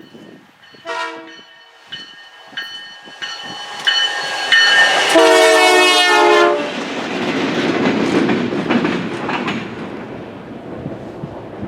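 Two EMD GP20 diesel locomotives running light, without cars, sound a short horn blast and then a long, loud one, with the locomotive bell ringing in between. They pass with a rumble of engines and wheels that slowly fades.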